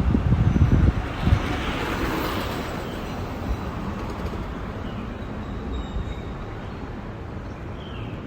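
Wind buffeting the microphone in low gusts for the first second or so, then a steady outdoor hush with a few faint, short bird calls.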